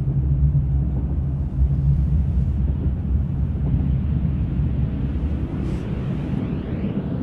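Steady low rumble of a running vehicle, which shifts in tone about five and a half seconds in.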